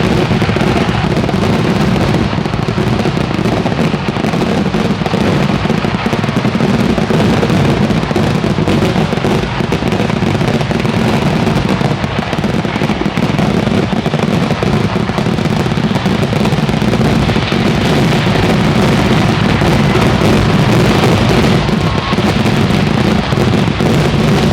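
Kerala temple fireworks (vedikettu) in a dense, continuous barrage, explosions following so fast that they run together into one steady din.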